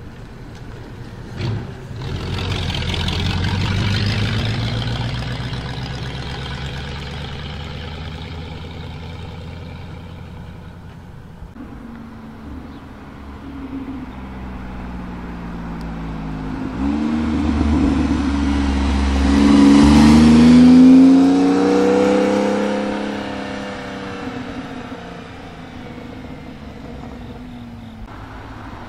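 A hot rod roadster's engine drives past and fades away. Then a Porsche 911 accelerates away hard, its engine note rising, dipping briefly at a gear change, and rising again before fading into the distance.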